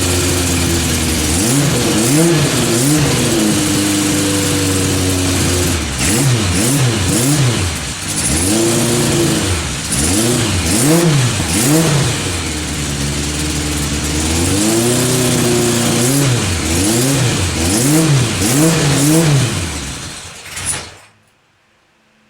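1976 Kawasaki KZ900's air-cooled inline-four, bored out to 1015cc and running through a Kerker exhaust, on its first run after decades laid up. It idles briefly, is blipped up and down over and over with a few short steady spells, then is switched off about 21 seconds in.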